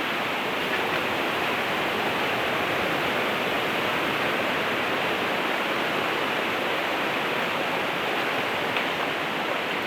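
A river in flood streaming past, heard as a steady, unbroken rush of fast-flowing water.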